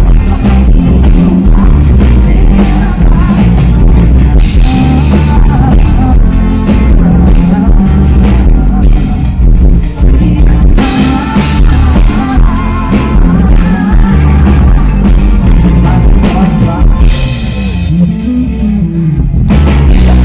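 Loud live band music: a singer over a drum kit and heavy bass.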